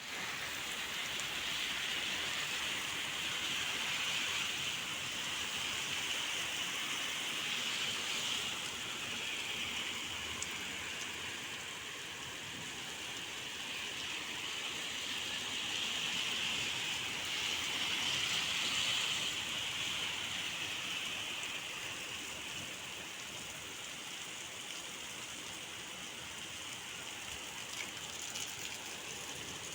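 Steady rain falling, a continuous hiss that swells and eases a couple of times.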